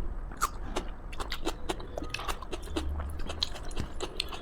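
Close-miked chewing: a person eating a home-cooked Indian meal, with many irregular wet mouth clicks and smacks.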